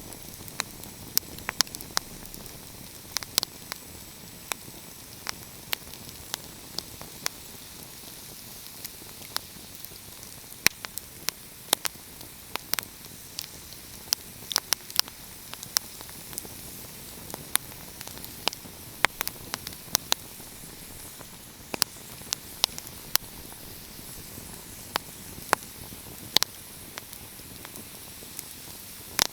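Wood fire crackling: irregular sharp pops and snaps, several a second, over a steady soft hiss.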